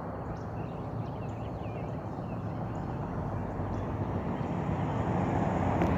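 A distant engine rumble that slowly grows louder, with faint bird chirps in the first half.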